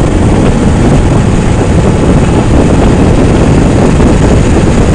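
Loud, steady wind rush buffeting the microphone on a moving motorcycle, mixed with engine and road noise.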